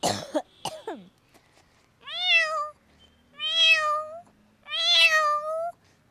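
A woman imitating a cat with her voice: a couple of short sounds in the first second, then three drawn-out, convincing meows, each rising and then levelling off.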